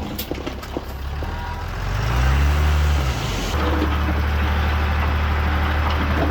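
Heavy diesel engine of earth-moving machinery running, with a few sharp knocks in the first second. About two seconds in it revs up and back down, then settles into a steady run.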